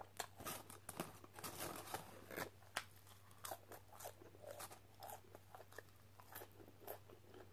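A person chewing crunchy fried food, curly fries, close to the microphone: a faint, irregular run of crisp crunches and wet mouth clicks.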